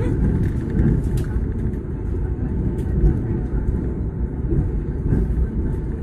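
Passenger train running along the rails, a steady low rumble with a few sharp clicks.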